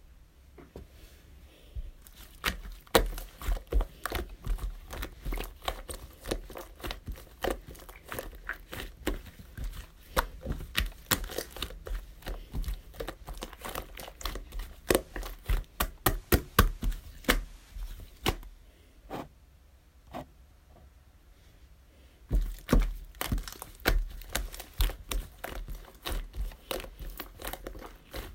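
Close handling noises: a quick, irregular run of crinkles and clicks, like something crinkly being handled. They stop for a few seconds about two-thirds of the way through, then start again.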